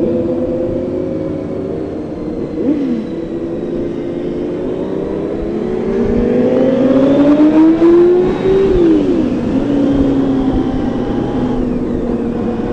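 Several motorcycle engines running together as a group of bikes rolls out, one of them rising in pitch as it accelerates for about three seconds past the middle, then dropping back.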